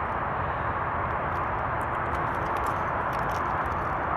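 Steady background hiss with faint scattered clicks, as of a key fob being handled.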